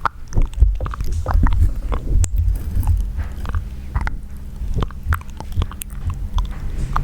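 Close-miked wet mouth sounds: a quick, irregular run of small clicks, pops and smacks of tongue and lips, with no talking.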